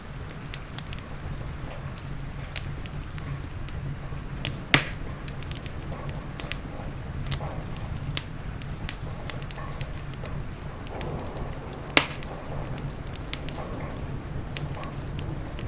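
Wood fire crackling in a fireplace: many small, sharp crackles and two loud pops, about five and twelve seconds in, over a steady low rumble.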